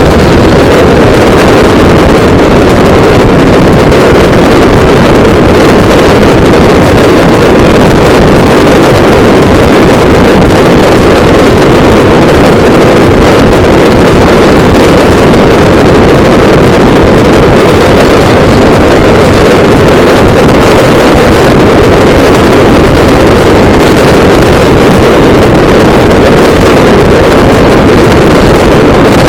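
Loud, steady wind rush on the microphone of a moving motorcycle, mixed with the bike's engine and road noise at cruising speed.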